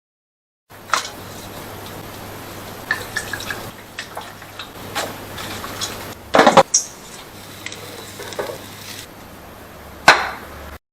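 Metal fireplace door being worked: a series of clicks and clanks, the loudest a cluster about six and a half seconds in and another sharp one near the end, over a faint steady hum.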